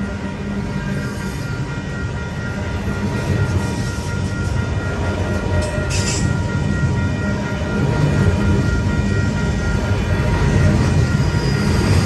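Diesel-hauled train with a low, steady rumble that grows gradually louder.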